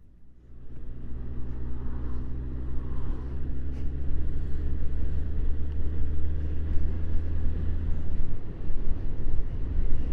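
Suzuki Bandit motorcycle's inline-four engine running steadily, a low rumble that comes in about half a second in.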